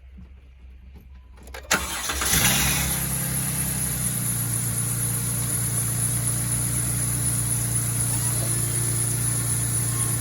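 A Jeep's engine is started: a sharp click about a second and a half in, a brief rise as it catches, then a steady idle.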